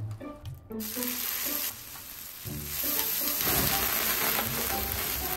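Food sizzling loudly on a hot griddle plate as flames flare up from it. The sizzle swells about three seconds in and cuts off suddenly at the end.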